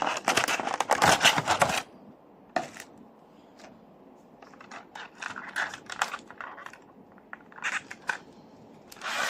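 A model airliner and its packaging being handled: a loud burst of scraping and rustling for about the first two seconds, then scattered lighter clicks and rubs.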